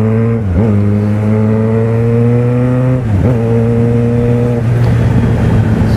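Yamaha XJ6 600 cc inline-four engine, fitted with an aftermarket Power exhaust, pulling hard under acceleration with wind rush. The engine note climbs steadily, dips briefly with an upshift about half a second in and again about three seconds in, then the engine note fades near the end as the throttle is rolled off.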